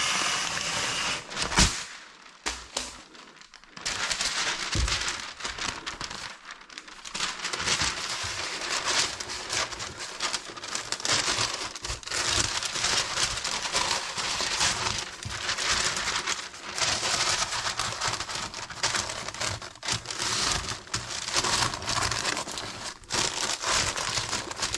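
Stiff paper rustling and crinkling as it is handled and laid out, in repeated surges every second or two.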